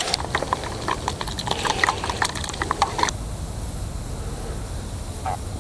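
Open wood campfire crackling and popping with many sharp snaps, cutting off abruptly about three seconds in, leaving only a low steady rumble.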